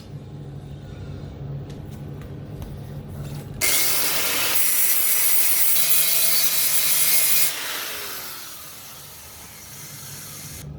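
Grinder kicks on about a third of the way in and grinds a steel plug weld flat for about four seconds. It is then switched off and winds down with a falling whine.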